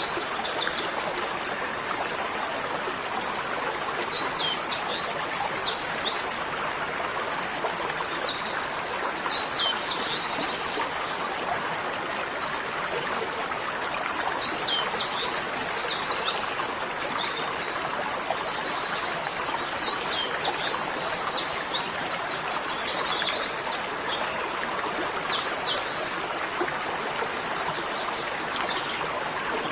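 Songbird phrases of quick, sharply falling high whistles, repeated every few seconds over a steady rush of running water.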